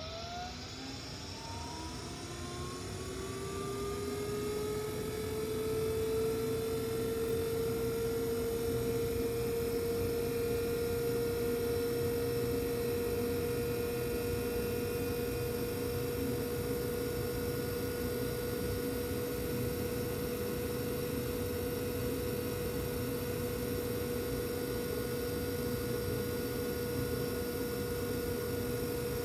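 Carrier Infinity98 gas furnace's fan motor spinning up: a rising whine that levels off about six seconds in, then a steady hum of the fan running at speed.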